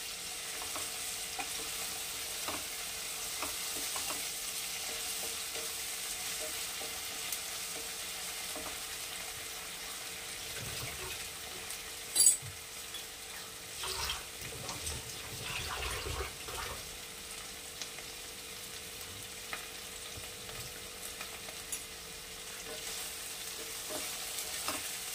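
Tomato and onion masala sizzling in hot oil in a kadai, stirred with a wooden spatula that scrapes and taps against the pan. There is one sharp knock about twelve seconds in.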